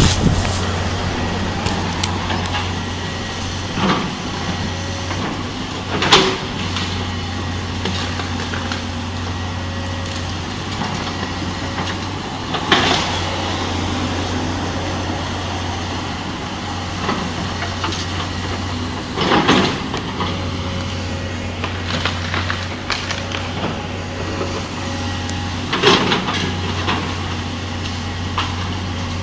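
Tractor engine running steadily under load, with loud cracks and crunches of breaking wood from the house being torn down, about five times, every six or seven seconds.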